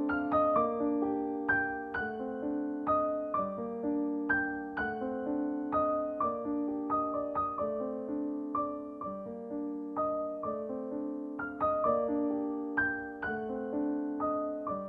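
Background music: a slow, gentle solo piano piece, notes struck and left to decay in an even, repeating pattern.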